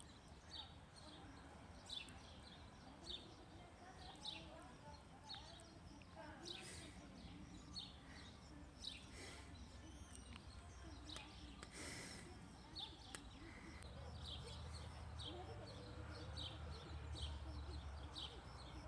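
Faint bird chirping: short high chirps repeated about once a second over a quiet background, with a low hum rising in the last few seconds.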